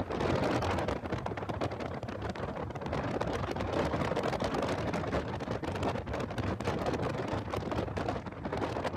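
Heavy wind noise buffeting the microphone of a car at track speed: a loud, steady rush with constant crackling that buries the car's own engine and road sound.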